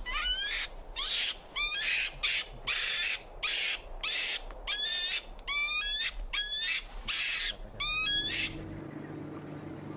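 Angry European mink giving a rapid series of shrill squeals mixed with hisses, about two calls a second, a sign of its distress at being handled. The calls stop about eight and a half seconds in.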